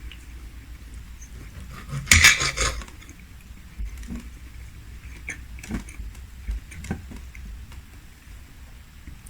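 Eating at the table: a short clatter of tableware about two seconds in, then scattered soft clicks and light knocks of the meal being eaten.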